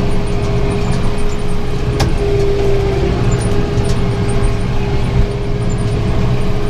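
Tractor engine pulling a round baler, running steadily under load and heard from inside the cab, with a constant hum over the drone and one sharp click about two seconds in.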